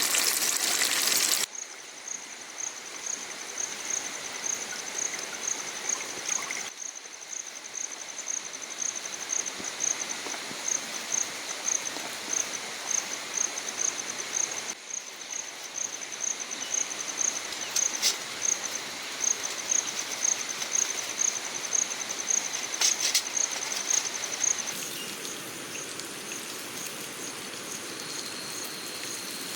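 Rushing water that cuts off abruptly about a second and a half in. After it comes an outdoor background of steady hiss with an insect chirping in a fast, even, high-pitched pulse, a few pulses a second.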